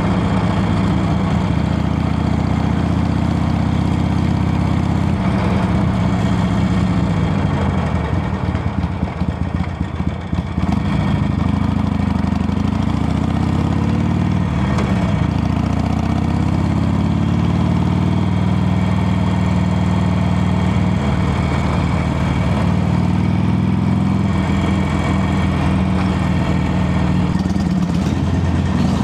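Harley-Davidson Sportster Iron 883's air-cooled 883 cc V-twin engine running steadily. It eases off about eight seconds in, then climbs in pitch as it revs back up and settles.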